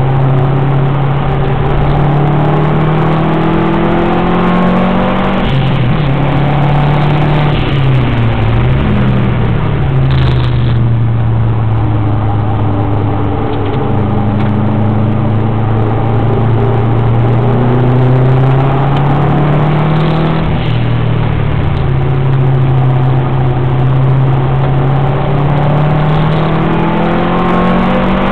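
Subaru WRX's turbocharged flat-four engine driven hard on track, revs rising and falling through gear changes: they drop several times in the first nine seconds, climb steadily from about halfway, dip at a shift around two-thirds through and climb again near the end.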